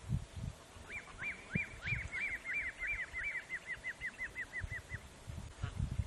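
A bird calling in a quick series of short arched notes, about four a second, starting about a second in and fading away after about four seconds. Irregular low rumbles run underneath.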